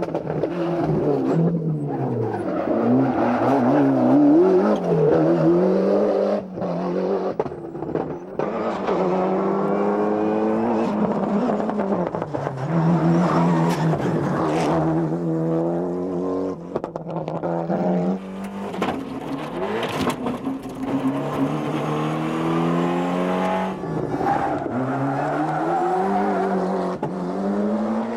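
Rally car engine at full load, rising through the revs and dropping back with each gear change, then easing down and pulling up again through a run of corners.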